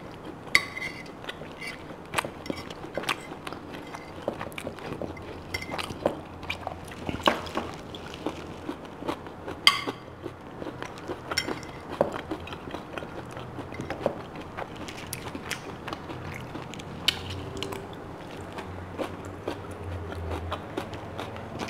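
Close-miked eating of rack of lamb: chewing and mouth sounds with many short clicks and smacks, some from a fork working on a plate, over a faint steady low hum of background noise.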